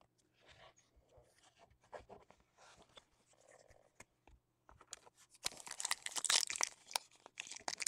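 Foil trading-card pack wrapper being handled and torn open, faint rustling at first, then loud crinkling and tearing from about five and a half seconds in.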